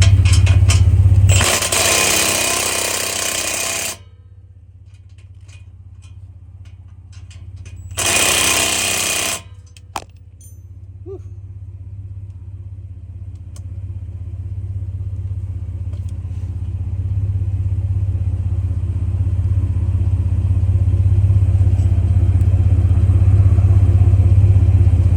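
Ford F-150's 3.5-litre EcoBoost V6 idling through an aftermarket exhaust while it is checked for an exhaust leak: a steady low drone that dips after a second or so and builds back up in the second half. Two loud bursts of noise come near the start and about eight seconds in, with a few light clicks between them.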